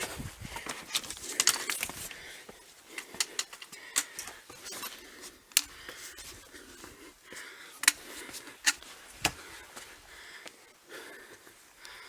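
A hiker's footsteps on stony wadi ground, heard as irregular sharp clicks and scuffs, with heavy breathing every second or two.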